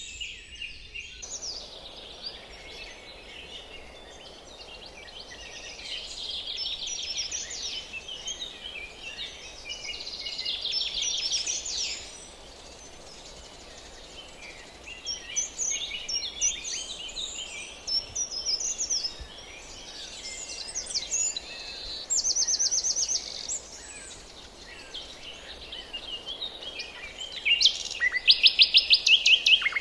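Forest birds singing and calling, a mix of chirps and fast trills of rapidly repeated notes, over a faint steady hiss. The loudest is a rapid trill near the end.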